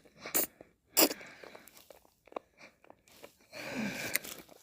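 Close-miked mouth sounds of eating ice cream: wet lip smacks and licks, a few sharp clicks in the first second, then a longer wet sound around three and a half seconds in.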